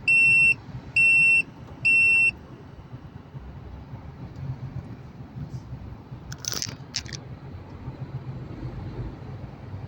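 Three loud electronic beeps, each about half a second long and one a second, over the steady low rumble of a truck running, heard from the cab. A short hiss comes about six and a half seconds in.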